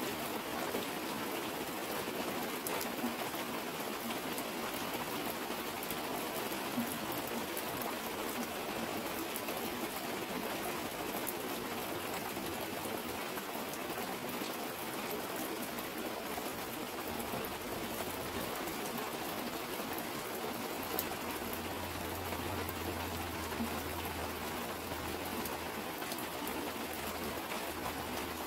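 Steady heavy rain with water streaming down a clear plastic sheet, a dense even patter with scattered drip ticks. A faint low hum runs underneath for several seconds in the second half.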